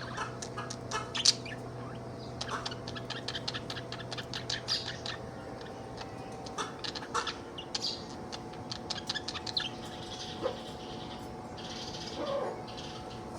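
Budgerigar chattering: quick clicks and short chirps in a rapid run, with scratchy warbling stretches near the end.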